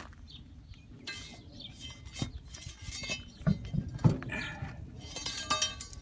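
Metal parts of a tractor wheel change being handled: scattered clinks with a brief metallic ring about a second in and again near the end, and a few dull knocks in the middle.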